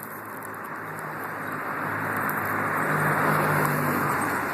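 Street traffic noise: a motor vehicle going by, its engine hum and tyre noise swelling over about three seconds and easing slightly near the end.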